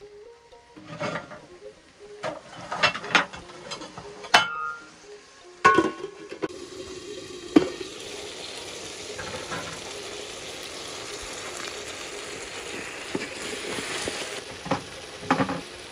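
Chopped tomatoes frying in an aluminium saucepan. A cooking spoon knocks and scrapes against the pot in sharp strokes for the first six seconds or so, then a steady sizzle takes over, with a few more knocks near the end.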